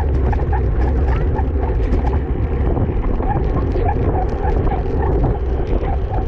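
Wind buffeting the microphone of a camera carried at racing speed on a bicycle, a steady low rumble with irregular higher chirps mixed in.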